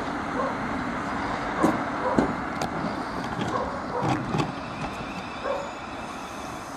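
Electric passenger train pulling away, its wheels knocking over rail joints several times as it recedes and the sound slowly fades.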